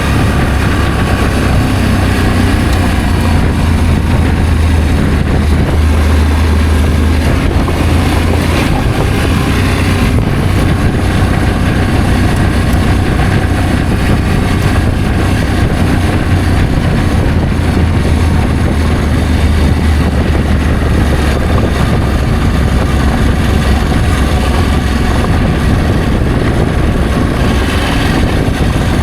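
Motorcycle engine running steadily while riding, a low, even drone with road and wind noise over it.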